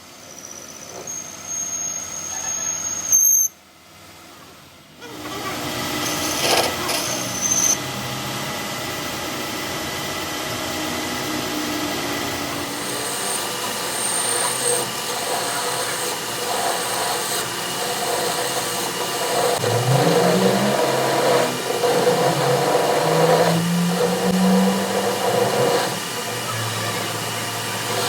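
Workshop tool noise: a steady high-pitched squeal for about three seconds, a brief drop, then a continuous mechanical din with a tone that rises in pitch about twenty seconds in.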